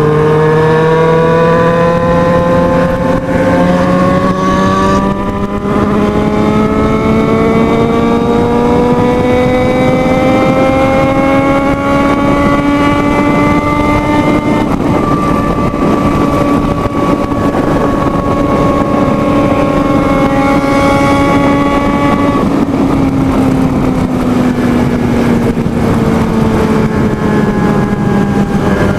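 Motorcycle engine pulling hard at high speed, its pitch climbing slowly for about half the time as the bike gains speed in a high gear. It then holds steady, eases off a little about two-thirds of the way through, and drops further near the end, with wind noise underneath.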